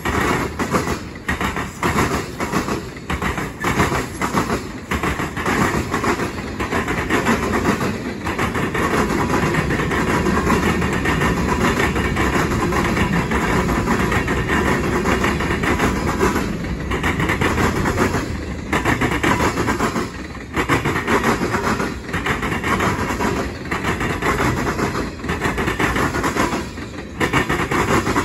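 Loaded freight cars (boxcars, covered hoppers and tank cars) rolling past close by: a steady rumble and squeal of steel wheels on rail, with repeated clacks as wheels pass over the track. The level dips briefly several times in the second half.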